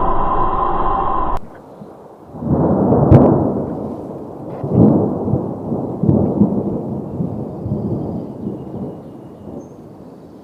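Rolling thunder: several low rumbles that swell and fade, the loudest about three seconds in with a sharp crack, dying away toward the end. It is preceded by a steady dense rumbling noise that cuts off abruptly about a second in.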